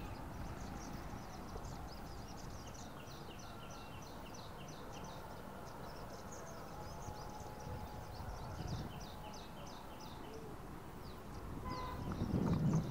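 A bird chirping in rapid, thin, high notes, about four a second, in stretches with a short break midway. Under it is a low rumble that grows louder near the end.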